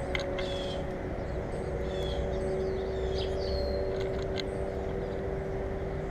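Small birds chirping at a bird feeder, short high chirps and a couple of quick down-slurred whistles, over a steady low mechanical drone with a constant hum.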